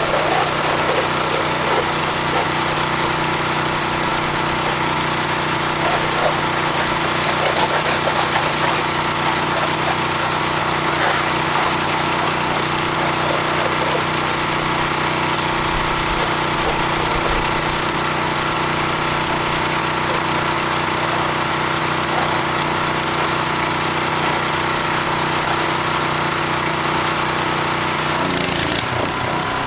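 Engine-driven 4-gallon-per-minute pressure washer running steadily, with the hiss of its water spray. Near the end the engine note changes and drops.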